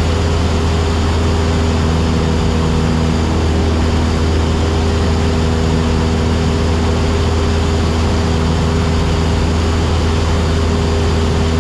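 Cessna 172SP's four-cylinder Lycoming IO-360 engine and propeller droning steadily in cruise flight, heard inside the cabin as an even low hum with no change in pitch.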